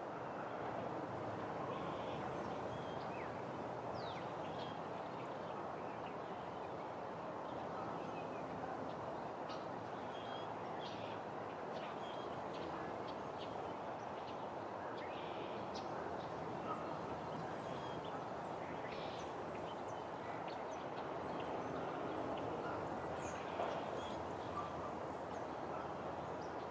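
Birds calling: many short, high chirps and notes scattered over a steady outdoor background hiss, with a couple of faint sharp ticks near the end.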